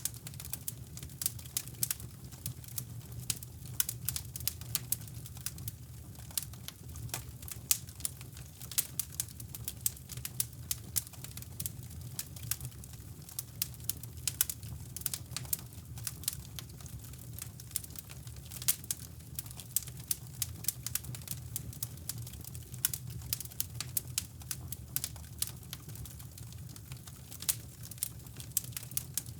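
Wood fire crackling in a fireplace, with irregular sharp pops and snaps, over a steady low brown-noise rumble.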